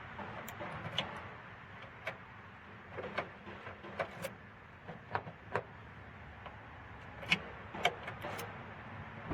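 Sharp clicks and snaps, about a dozen spread over several seconds, from a newly installed car exterior door handle and its latch being worked to test it.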